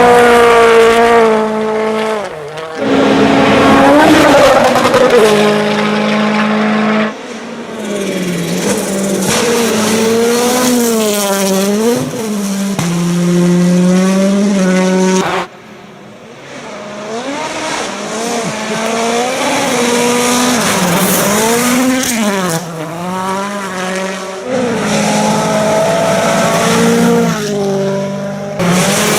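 Off-road racing engines revving hard, their pitch repeatedly climbing and dropping as the throttle opens and lifts. The sound changes abruptly several times from one vehicle to the next.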